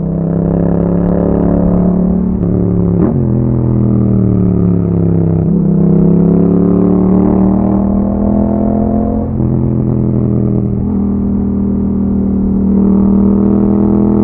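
Yamaha MT-07 parallel-twin engine through an Akrapovic aftermarket exhaust while riding. The engine note climbs and drops sharply about three seconds in and again around five and a half seconds, then holds fairly steady with smaller changes in pitch.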